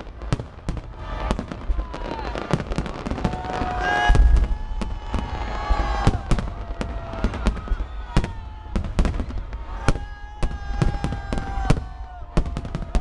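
Fireworks salute: a rapid run of booms and crackling bangs, the heaviest boom about four seconds in. Long tones that fall slightly in pitch run through it, each lasting a second or two.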